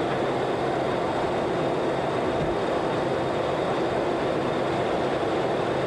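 Steady rushing noise of airflow and engines on a Boeing 737-200 flight deck during the climb, unchanging throughout.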